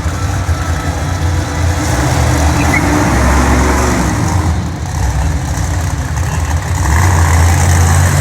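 Monster truck engine running loudly, its revs swelling about two seconds in and again near the end.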